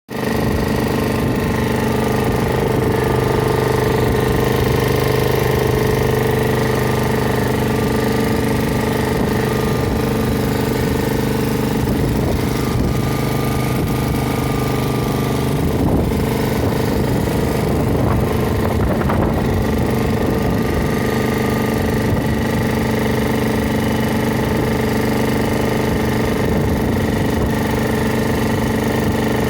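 Honda HRX537HXEA rotary lawnmower's single-cylinder four-stroke petrol engine running steadily at constant speed after a service.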